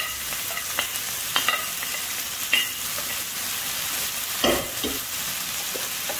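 Chicken and freshly added vegetables frying in a hot wok with a steady sizzle. A few short clinks and one louder knock about four and a half seconds in.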